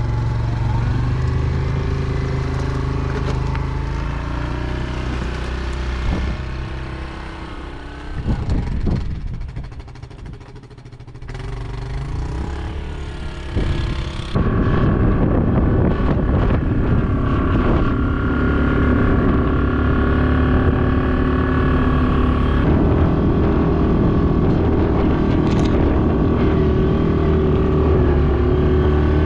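Quad (ATV) engine running as it is ridden through snow. The sound fades and dips about a third of the way in, then the engine runs steady and louder from about halfway.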